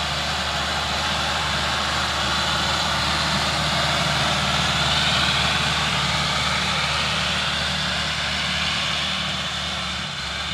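Tractor engine running steadily under load while cultivating a field, growing louder toward the middle and easing off a little near the end.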